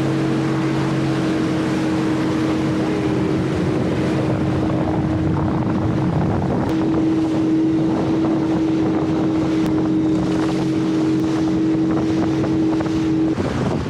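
Motorboat engine running at a steady pitch, with wind on the microphone; the engine cuts off near the end.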